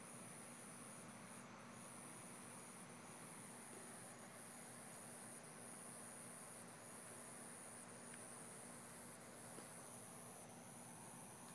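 Night insects trilling faintly: a steady high-pitched chorus that swells and fades about once a second, over a low hiss.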